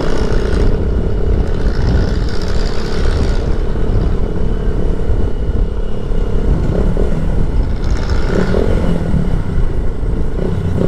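Motorcycle running steadily under way, heard from the rider's microphone with a heavy low wind rumble; its steady engine tone fades about two-thirds of the way through.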